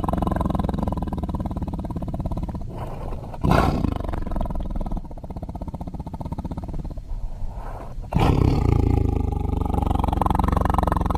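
Tiger growling and roaring: a long, rumbling, pulsing growl, with two louder roars breaking in suddenly about three and a half and eight seconds in.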